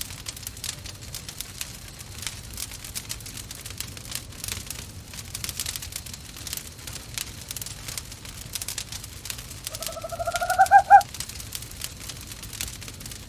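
Wood fire crackling and popping steadily in a fireplace. About ten seconds in, an owl gives one short call, a quick run of notes that rises slightly and grows louder for about a second.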